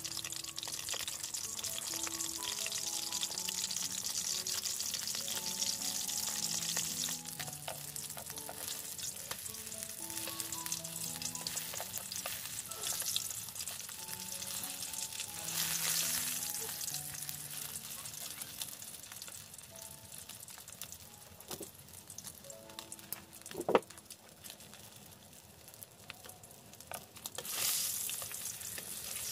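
Dried fish sizzling as it fries in oil in a steel wok, being turned with wooden chopsticks. The sizzle is strongest in the first few seconds and flares again midway and near the end, with one sharp knock about three-quarters of the way through. Soft background music with a simple melody plays underneath.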